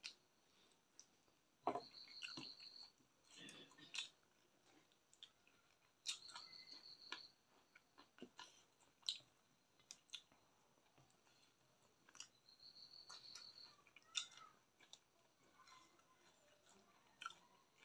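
Faint chewing of chicken: scattered mouth clicks and smacks coming in short bursts every second or two.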